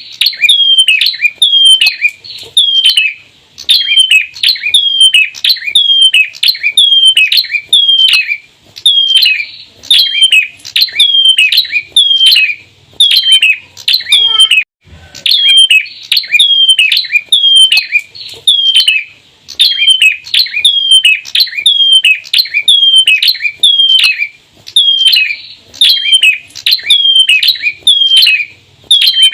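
Bar-winged prinias calling, male and female together: a sharp note that falls in pitch, repeated about twice a second in long runs with a few brief pauses, the 'ceplir' call variant.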